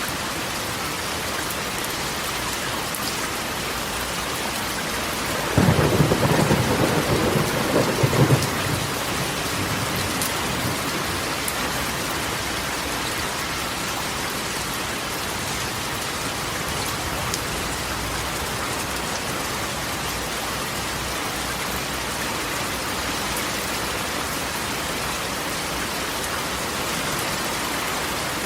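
Steady rain on a corrugated metal roof. A loud clap of thunder breaks in about five and a half seconds in and rumbles for about three seconds before the rain carries on alone.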